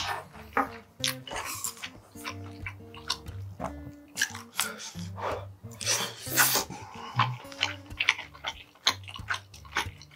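Close-miked eating sounds: a man chewing mouthfuls of rice and braised pork ribs, with wet smacking and slurping and repeated short clicks, over soft background music.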